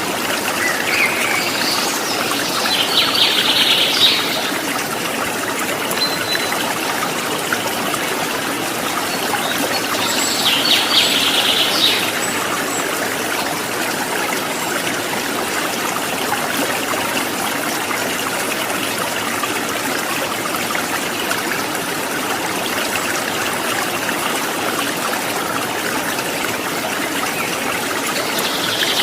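Steady trickling water with bird song over it: a bird gives a rapid burst of high chirps lasting about two seconds, a few seconds in and again about ten seconds in, and starts another near the end.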